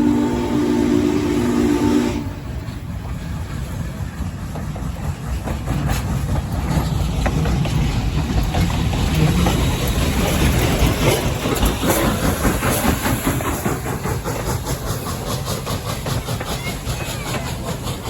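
Norfolk and Western 611 steam locomotive's chime whistle blowing, cutting off about two seconds in, then the train rumbling past with a fast rhythmic clatter, loudest around the middle.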